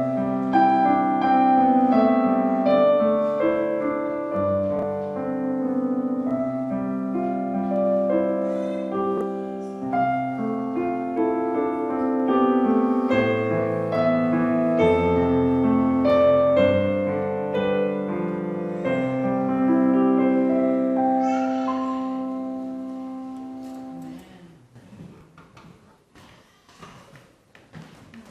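Slow piano music in held chords, dying away about three-quarters of the way through, followed by a few faint knocks.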